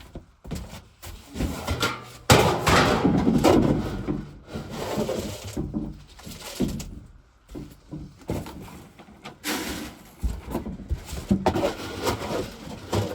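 Handling noise: rustling, scraping and wooden knocks, with a louder, longer rushing rustle from about two to five seconds in.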